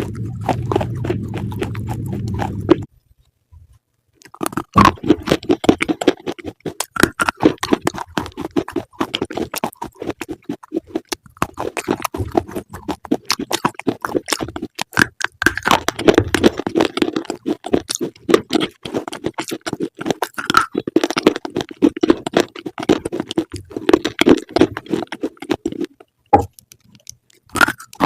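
Close-miked chewing of crunchy food: dense, irregular crisp crunches and crackles, stopping briefly twice.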